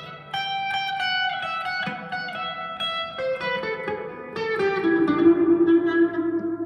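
Electric guitar, a Squier Classic Custom Telecaster, played through a Vox AV15 valve amp: a line of single picked notes that steps downward in pitch, then a louder held note over the last couple of seconds.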